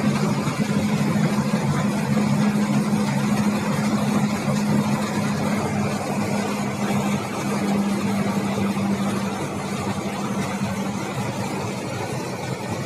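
Mercedes-Benz O500RS 1836 coach running under way: a steady engine hum over road and cabin noise, the hum dropping away about eleven seconds in.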